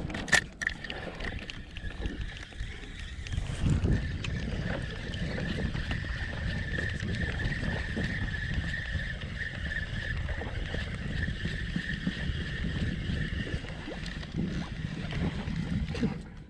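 Wind rumbling on the microphone and water moving around a fishing kayak on the sea. A faint, steady, high whine runs through most of it, and there is a single click right at the start.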